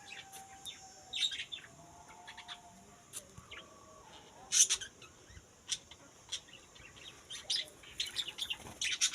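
Small birds chirping: many short, sharp chirps at irregular intervals, loudest about four and a half seconds in and coming thicker near the end.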